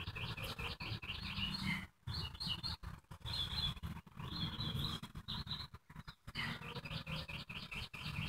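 Songbirds chirping in quick repeated trills, in several bursts, over an uneven low rumble.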